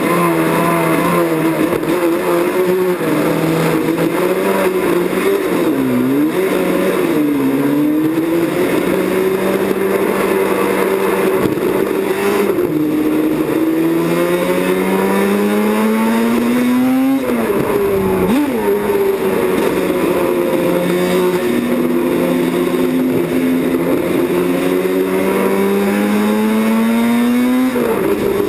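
Two-stroke four-cylinder engine of a 1978 Yamaha YZR750 OW31 racing motorcycle running hard. Its pitch climbs steadily through each gear and drops sharply at the upshifts, once past halfway and again near the end, with a few quick dips where it backs off.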